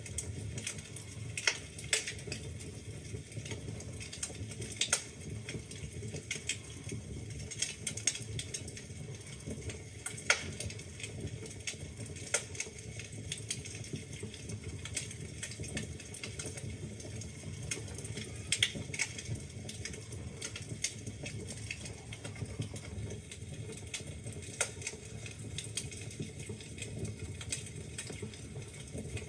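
Wood fire burning in a fireplace: a low steady rumble of flame with irregular crackles and sharp pops from the burning logs.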